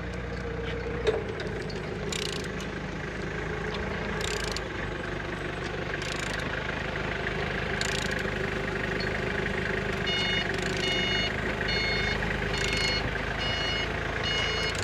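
A vehicle engine idling steadily, with short hissing whooshes about every two seconds early on. From about ten seconds in, a reversing alarm beeps about twice a second.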